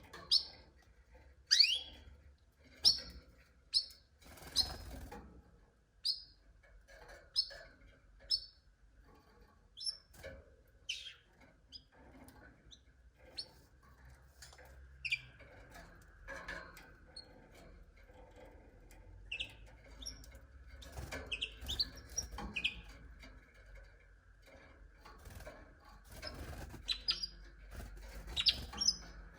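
Canaries giving short, separate chirping calls, about one a second and sometimes in quick pairs, rather than a continuous song. A few short rustles come in between, around five seconds in and again about two-thirds of the way through.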